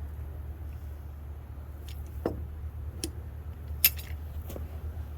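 A few light clicks and clinks of small hardware being handled, the sharpest just before four seconds in, over a steady low hum.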